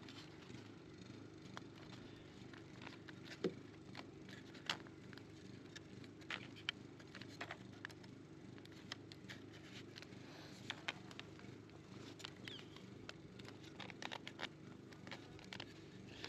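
Honeybees buzzing in a low, steady hum around the comb being handled, with scattered light clicks and taps from the handling.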